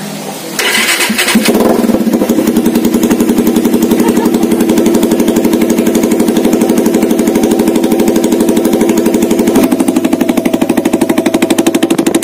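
Motorcycle engine starting and running through a homemade exhaust made from a coconut and bamboo pipe. It catches about half a second in and settles into a loud, fast, even putter, with a slight change in tone near the end.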